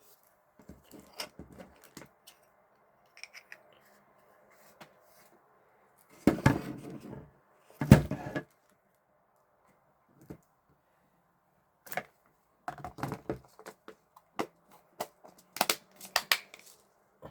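Handling noises of small hard objects: scattered clicks and taps, with two louder knocks about six and eight seconds in.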